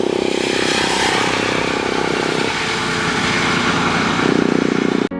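A motor vehicle's engine running close by on the road, with a wide hiss over it. The engine note shifts a couple of times before the sound cuts off abruptly.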